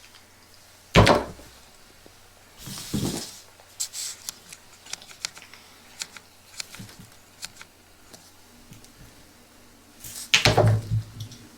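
Close-up handling of small plastic objects: three louder knocks, with scattered light clicks and brief rustles between them.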